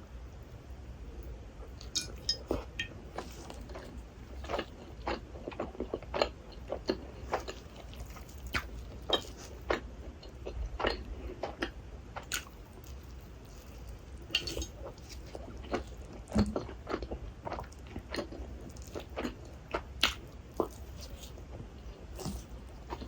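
Close-miked chewing of rasgulla, soft syrup-soaked cheese balls: wet mouth sounds with many irregular short smacks and clicks.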